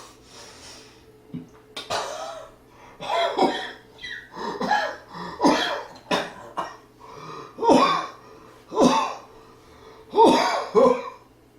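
A man's voice in a run of about a dozen short, loud vocal bursts, each with a falling pitch.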